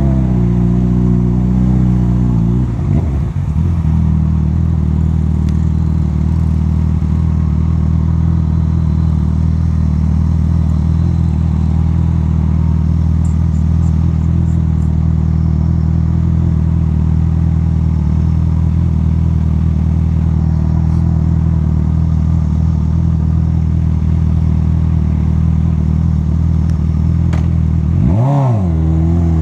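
Honda CB1000R's inline-four engine running at a steady pitch while riding. The revs briefly drop and rise about three seconds in, and again more sharply near the end.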